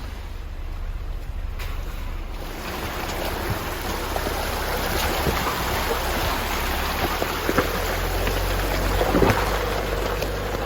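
Jeep Wrangler crawling over a rocky dirt trail: a low steady engine rumble under a rising wash of tyre crunch and gravel noise, with scattered small clicks and knocks of stones.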